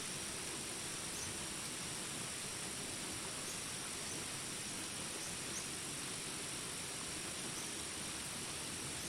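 Jungle ambience of steady rain hiss under a continuous high insect drone, with brief high chirps every second or two.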